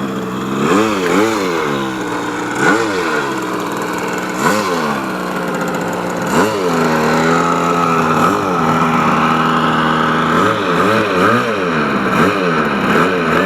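Small model-aircraft engines of an RC OV-10 Bronco model plane running steadily, with repeated short throttle blips where the pitch quickly rises and falls, a few in quick succession near the end.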